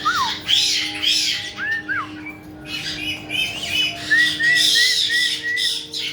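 Caique parrots calling: short whistled glides mixed with harsh squawks, and in the second half a quick run of five short rising-and-falling whistles. A faint steady hum lies under the calls.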